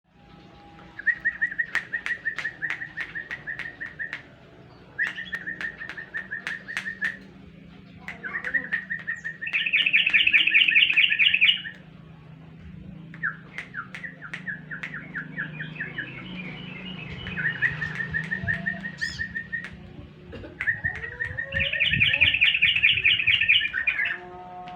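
Yellow-vented bulbul (trucukan) song: about six bouts of rapid, repeated chattering notes, each two to three seconds long with short gaps between. Some bouts have a higher run of notes on top. A low steady hum runs underneath.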